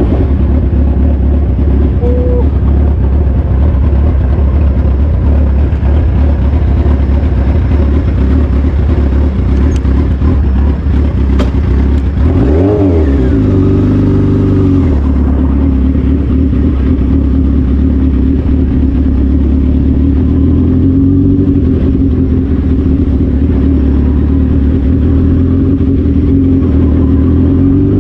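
Suzuki Hayabusa's inline-four engine running steadily. About halfway through, its pitch drops briefly and climbs back.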